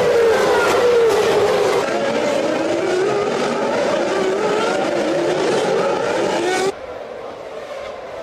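Formula One car engines running at high revs, the pitch falling and then climbing again as the car slows and accelerates. The sound cuts abruptly twice, and near the end it drops suddenly to a quieter, more distant engine sound.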